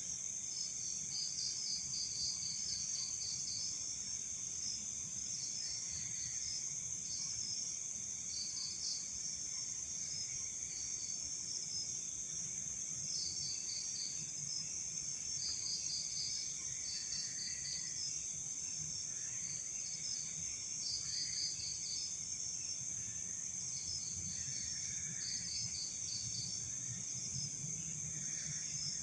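Night insect chorus: crickets chirping in short pulsed groups over a steady high trill. A very high continuous whine drops out about two-thirds of the way through.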